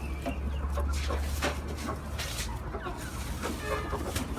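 Chickens clucking, several short calls, busiest near the end, among scattered knocks and rattles.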